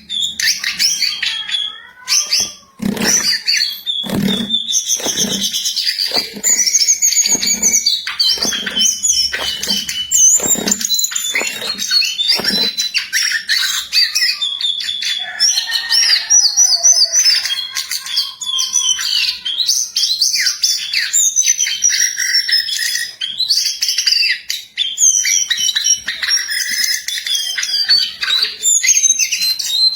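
Jongkangan songbird singing in full voice, a busy, unbroken run of rapid high chirps and warbled phrases. Through the first half come about a dozen dull thumps, roughly one a second.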